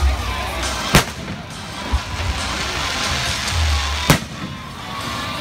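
Festival fireworks bursting overhead: two sharp bangs about three seconds apart, with softer low thuds between them and music underneath.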